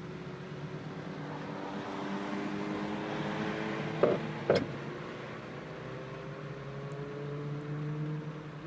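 A motor vehicle's engine running steadily, its pitch drifting slowly upward in the second half. A swell of rushing noise builds and fades around the middle, and two sharp clicks come about half a second apart a little after four seconds in.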